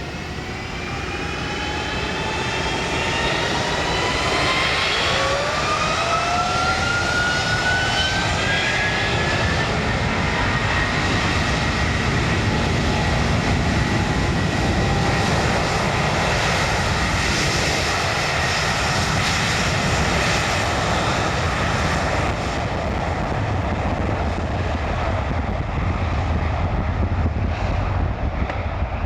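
Airbus A330-200 twin-jet with Pratt & Whitney PW4000 turbofans at takeoff power: a whine that rises in pitch and grows louder over the first ten seconds or so as the engines spool up, then a loud, steady jet roar.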